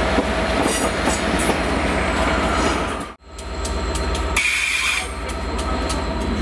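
Transport for Wales multiple units in the station: one running past on a far track, its wheels clicking over rail joints, then, after an abrupt cut about three seconds in, another drawing into the platform close by, with a brief high squeal of brakes or wheels about a second later.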